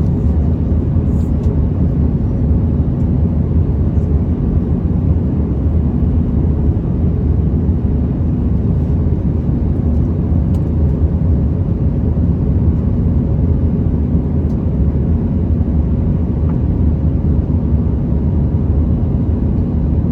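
Steady low rumble inside an Airbus A321 passenger cabin in flight: engine noise and air rushing past the fuselage, with faint steady hums running through it.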